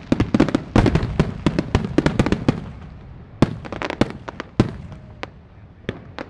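Aerial fireworks finale: a rapid barrage of bangs and crackles that thins after about two and a half seconds to a few scattered single bangs as the show winds down.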